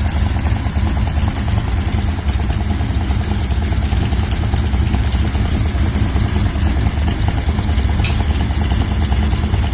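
Chrysler 318 V8 idling steadily in a custom Dodge truck, with a strong low exhaust pulse and a few light ticks.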